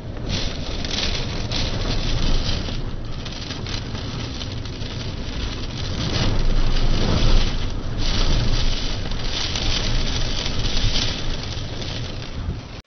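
Storm noise of wind and rain: a steady rushing that swells and eases, loudest about six to eight seconds in.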